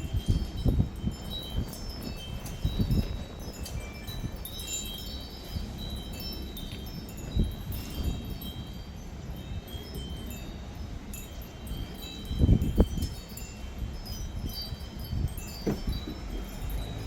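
Irregular high tinkling chime tones over a low rumble, with a few dull low thuds, the loudest about twelve seconds in.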